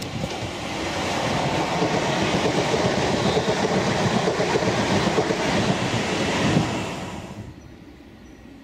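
A Class 350 Desiro electric multiple unit passing close at speed: steady wheel-on-rail noise that builds to its loudest just before the last coach goes by. It drops away sharply about seven and a half seconds in.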